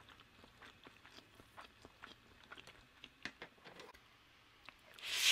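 Close-miked chewing of soft macaroni and cheese: many small wet mouth clicks and smacks, with one louder, brief noisy sound near the end.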